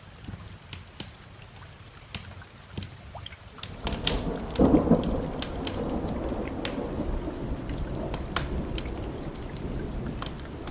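Thunder rumbling in about four seconds in, loudest around five seconds and rolling on, over steady rain. Sharp pops and crackles of a wood fire sound throughout.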